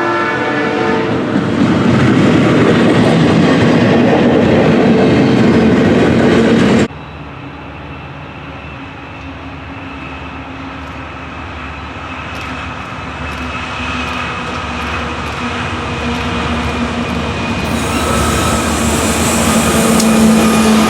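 Train horn sounding a chord that fades about a second in, then the loud steady rumble of a train passing close by. This cuts off suddenly about seven seconds in, followed by a quieter train with a steady diesel locomotive hum that grows gradually louder as it approaches.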